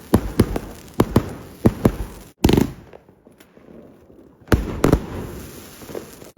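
Fireworks going off: a quick series of sharp bangs, several a second, then a pause of about a second and a half and two more bangs.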